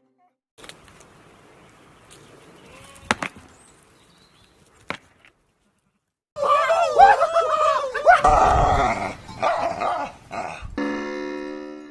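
Dog barking, starting about six seconds in, after a few seconds of faint noise with a couple of clicks. A held musical tone comes in near the end.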